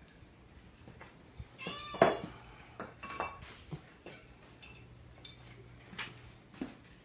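A cat meows once, about two seconds in, a single bending call. Light clinks and taps are scattered around it.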